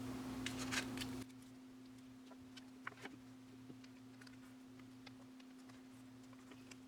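Faint scattered clicks and light rustling of photocards and plastic binder sleeves being handled, over a steady low hum.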